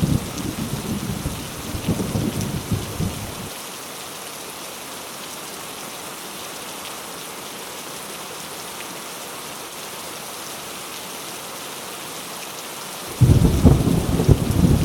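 Heavy rain pouring steadily, with thunder rumbling low for the first few seconds and then cutting off suddenly. The rain goes on alone until rolling thunder starts again abruptly near the end.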